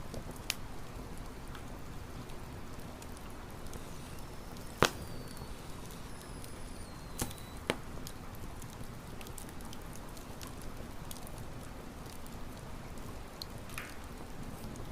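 Campfire burning with a steady low rumble and a few sharp wood pops, the loudest about five seconds in and two more shortly after.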